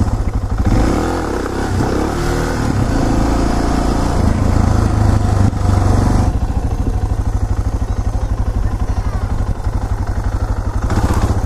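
Suzuki DR650SE's single-cylinder four-stroke engine running, its pitch shifting for the first six seconds or so, then settling into a steady idle.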